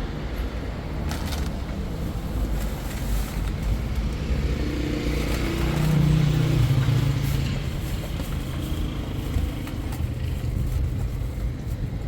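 A motor vehicle's engine running with a low rumble. It grows louder and higher in pitch about halfway through, then eases off.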